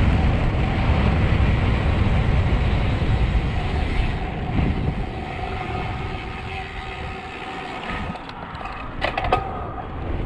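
Wind rushing over the microphone of a road bike on a fast descent, a heavy rumble that eases about two-thirds of the way through as the bike slows, with a faint steady hum underneath. A few quick clicks or knocks come near the end.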